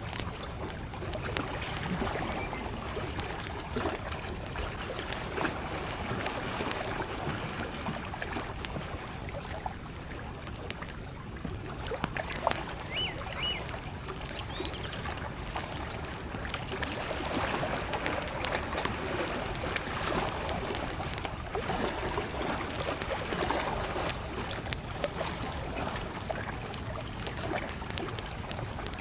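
Small lake waves lapping steadily at the shore, with a wood campfire crackling in scattered sharp pops over it. A few brief, faint bird chirps come through, one pair about halfway through.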